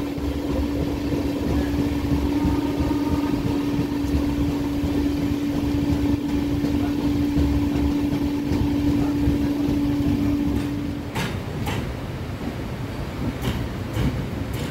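Express passenger train running along the track, heard from on board: a steady rumble with a steady hum that stops about eleven seconds in, followed by a few sharp clacks from the wheels on the rails.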